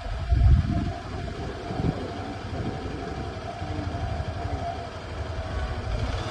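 Road vehicle engines running, a low rumble that is loudest about half a second in.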